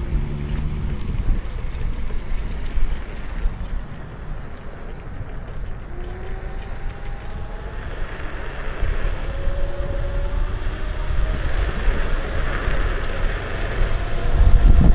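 Wind buffeting the microphone of a camera riding on an electric scooter in motion, a heavy low rumble that surges near the end, with a hiss that builds in the second half and a few faint whines gliding in pitch in the middle.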